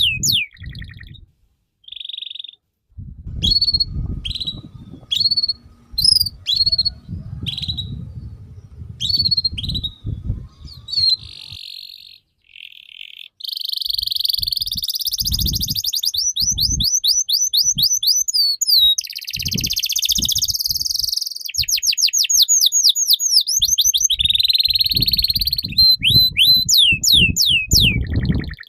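A songbird singing loudly and continuously in fast, varied phrases: quick runs of down-slurred whistled notes alternating with dense, buzzy trills. Patches of low rumbling noise come and go under the song, mostly in the first third and again near the end.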